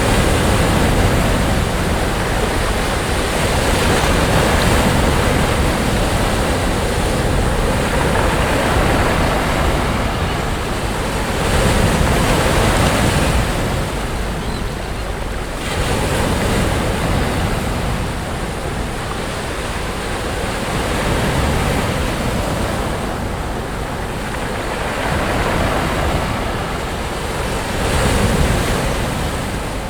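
Sea waves breaking on a beach: a continuous wash of surf that swells and ebbs every few seconds as each wave comes in and draws back.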